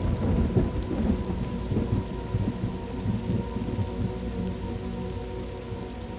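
A thunderclap that rolls and rumbles for several seconds over steady rain, dying down toward the end.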